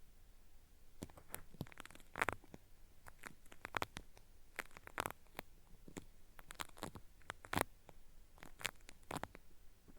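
Cotton swab worked against the ear of a binaural microphone, giving irregular sharp crackles and peeling, tearing-like snaps, several a second, with a few louder snaps mixed in.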